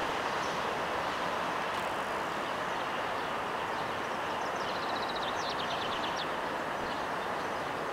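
Steady rushing outdoor background noise. About four seconds in, a short run of rapid high chirps is heard.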